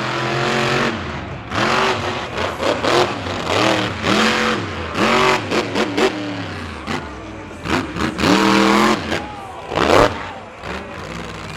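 Monster truck engine revving hard in repeated surges, its pitch climbing and dropping again and again as the driver works the throttle, with the loudest blasts about halfway through and near the end.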